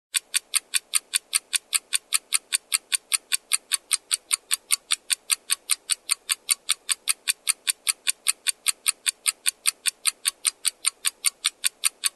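Countdown timer sound effect: an even, clock-like ticking at about five ticks a second, running out the time allowed to answer the quiz question.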